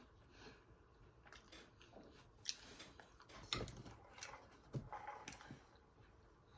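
Faint, close-up chewing and lip-smacking, with scattered soft clicks and smacks of a mouth eating fried food.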